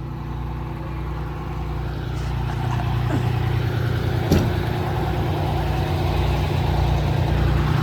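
1984 Pierce Dash fire engine idling steadily, with a single short click about four seconds in.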